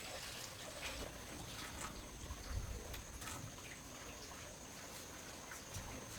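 Faint trickling water with scattered light clicks, and a thin, high steady tone that starts about a second in.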